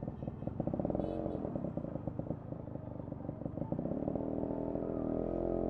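Yamaha RX 100's single-cylinder two-stroke engine and exhaust running at low revs with an uneven, pulsing beat, then settling into a steadier, slightly louder note about four seconds in.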